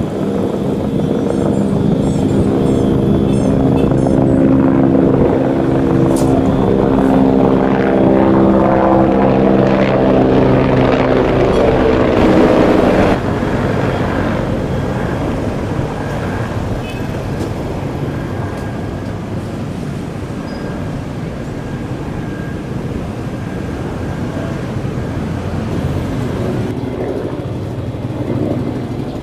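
Bell 412 twin-turbine helicopter flying past, a loud drone with a stack of steady pitches that sag slightly in pitch as it passes. About halfway through the sound changes abruptly to a duller, quieter drone, and changes again near the end.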